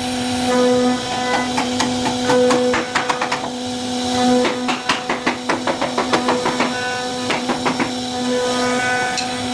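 CNC router spindle running at a steady high speed while cutting wood, with runs of sharp clicks and ticks from the bit working the wood, densest through the middle.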